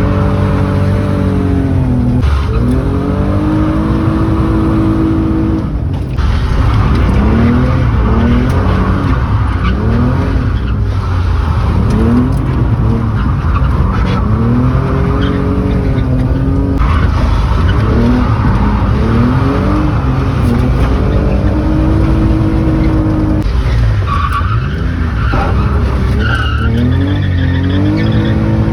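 Car engine driven hard, its pitch climbing and dropping again and again as it revs up and backs off, with a few stretches held at high steady revs. Tyres squeal in short bursts near the end.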